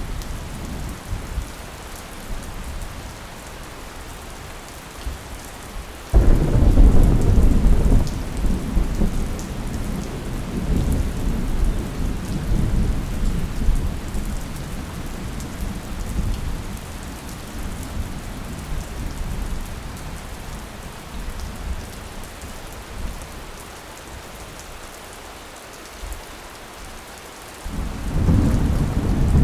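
Steady rain falling, with a sudden thunderclap about six seconds in that rumbles on and fades over several seconds, and another roll of thunder starting near the end.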